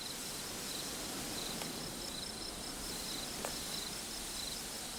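Insects chirping in the savannah ambience: short high-pitched trilled chirps repeating about twice a second over a steady background hiss, with a couple of faint ticks.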